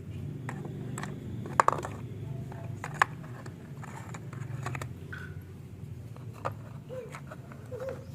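Scattered light clicks and taps over a steady low hum. There are two sharp knocks about a second and a half in and another at about three seconds, like small hard objects being handled and set down.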